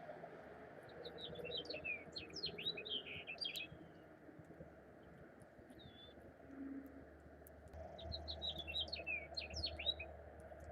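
Chipping sparrow singing: two bouts of rapid, high, dry chip notes, each about two to three seconds long, with a pause of about four seconds between them.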